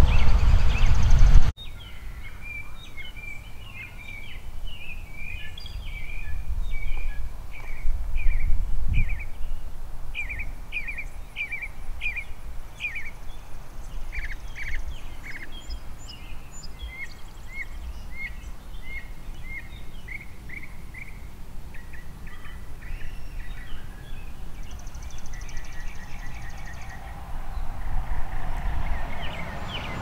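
Wild birds chirping and singing in many short, repeated calls over a steady low rumble of outdoor noise. A loud low rush opens it and cuts off abruptly about a second and a half in, and the low noise swells again near the end.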